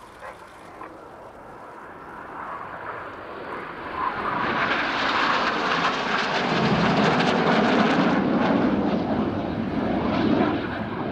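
A formation of BAE Hawk T1 jets, each with a single Adour turbofan, flies past. The jet roar builds over the first few seconds, is loudest about two-thirds of the way through with a deeper rumble coming in, then eases off a little.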